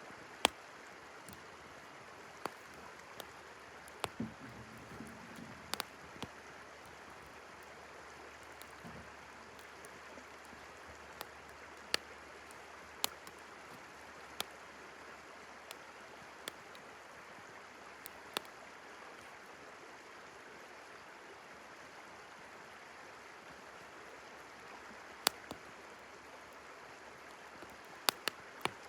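Wood campfire crackling, with sharp pops at irregular intervals, over the steady rush of a flowing river.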